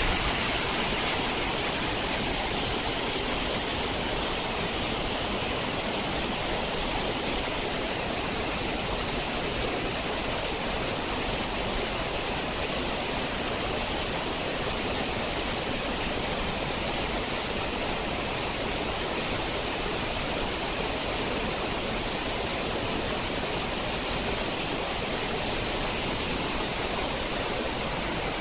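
Mountain stream and waterfall water rushing steadily over rocks, a constant even roar with no breaks.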